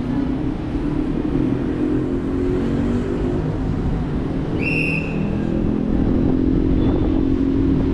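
Small motorcycle or scooter engine running steadily under way, its note shifting and getting a little louder after about six seconds. A short high squeal sounds once about five seconds in.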